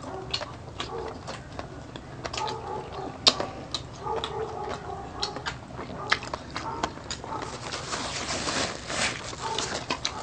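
Close-miked eating sounds: wet chewing and lip-smacking with many small mouth clicks as two people eat pork steak and rice by hand, with a few short hums between bites.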